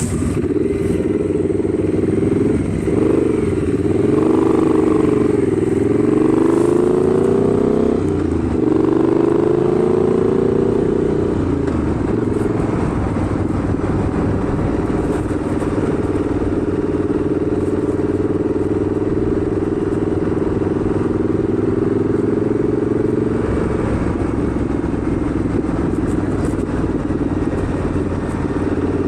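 Motorcycle engine pulling away, its pitch rising and dropping several times through gear changes in the first ten seconds or so, then running at a steady pitch for the rest of the time.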